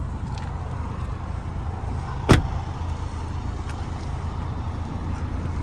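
A car door shutting with a single sharp thud about two seconds in, over a steady low rumble.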